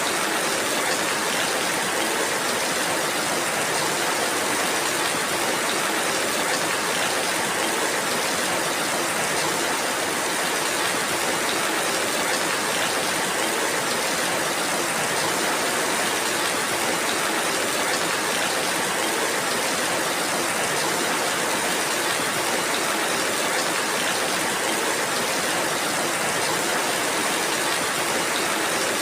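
Steady rainfall: an even, unbroken hiss with no single drops or thunder standing out.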